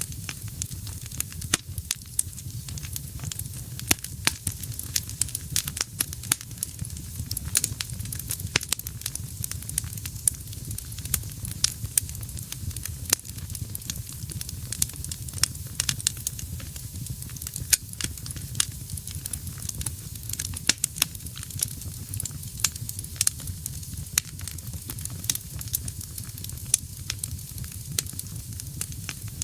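Wood fire burning in a fireplace: frequent sharp, irregular crackles and pops over a steady low rumble of flames.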